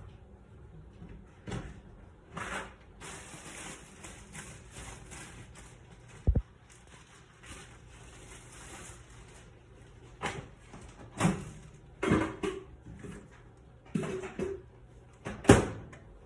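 Kitchen handling noises: a series of knocks and clatters, like cookware and cupboard doors being handled, with a heavy thud about six seconds in and the loudest knock near the end. A stretch of hissing runs through the first half.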